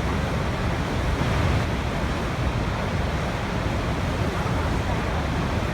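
Waterfall: a steady, unbroken rush of falling water, heavy and deep in tone.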